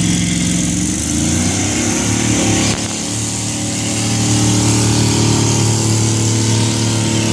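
Dodge pickup truck's engine running hard under load in a truck pull. Its pitch climbs for about two seconds, breaks off sharply about three seconds in, then holds a steady, lower pitch as it grows louder.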